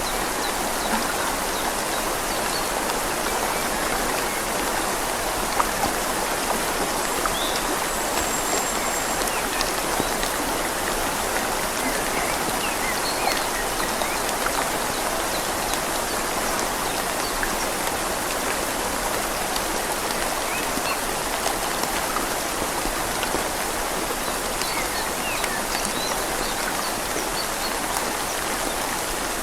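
Steady rain falling on leaves and a river, with the river flowing. Many small scattered drop ticks sound over an even wash of water noise.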